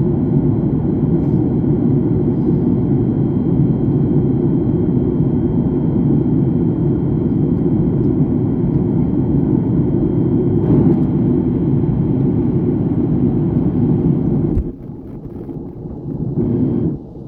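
Airliner cabin noise in flight: a steady rush of engines and airflow with a faint constant high whine. It drops away suddenly about three-quarters of the way through, comes back briefly and drops again near the end.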